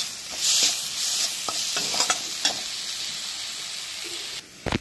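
Green chillies sizzling in hot oil in a steel kadhai while a steel spatula stirs them, scraping and clicking against the pan several times. Near the end the sizzle cuts off, and a single heavy thump follows.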